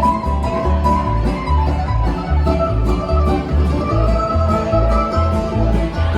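Bluegrass string band playing a tune: fiddle holding long notes over guitar and banjo, with a steady bass line keeping the beat.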